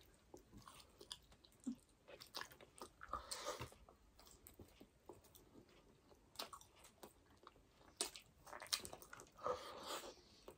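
Faint mouth sounds of people chewing burger steak with gravy and rice eaten by hand, with scattered small wet clicks.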